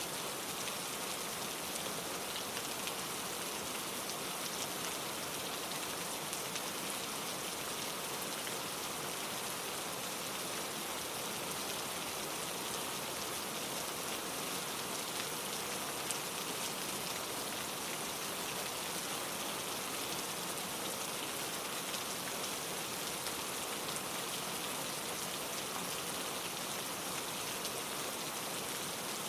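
Steady rain pattering on leaves, many fine drops in a dense, even hiss.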